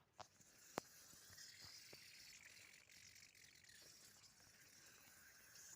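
Near silence with a faint steady hiss and a few short, faint clicks.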